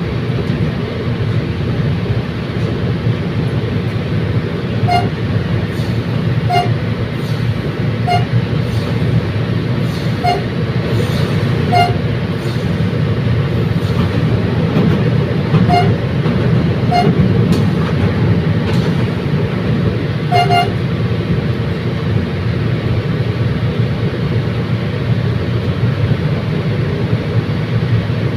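Commuter train running steadily with a constant low rumble. About eight short, sharp toots are heard at uneven intervals through the middle of the stretch.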